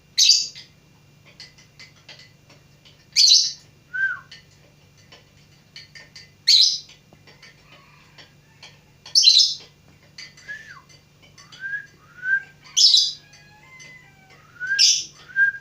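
Lovebird calling with loud, shrill screeches about every two to three seconds. Between them come shorter whistled notes that drop in pitch, and soft clicks.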